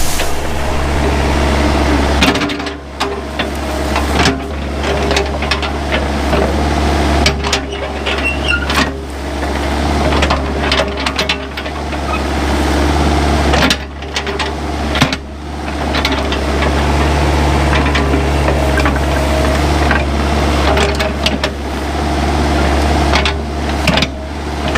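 Mini excavator's diesel engine running steadily under load while clearing brush, with irregular sharp cracks and knocks throughout.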